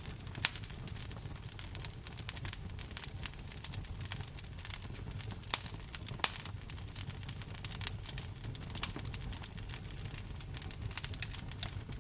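Wood fire burning, with a low steady rumble and frequent sharp crackles and pops from the burning logs, a few louder snaps among them.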